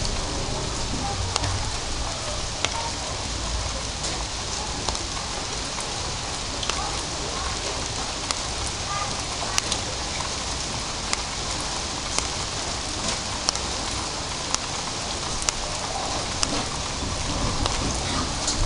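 Light rain (drizzle) falling: a steady hiss of rain with frequent scattered sharp drip clicks of drops hitting hard surfaces.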